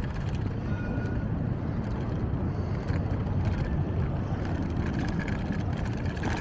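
Wind buffeting the microphone of a camera on a moving bicycle: a steady low rumble with no clear events.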